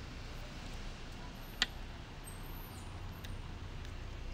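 Low, steady rumble of a car's engine idling, with a single sharp click about a second and a half in.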